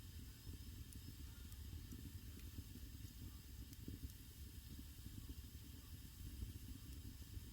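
Wood fire burning in a traditional Korean agungi firebox: a faint, steady low rumble and hiss of the flames, with a few sparse soft crackles.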